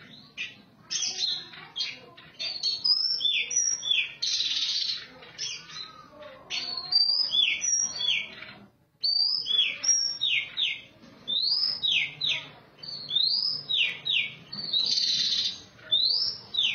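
Oriental magpie-robin (kacer) singing: a varied run of quick whistled notes, many sliding down in pitch, mixed with a few harsh scratchy notes and a short pause about halfway through.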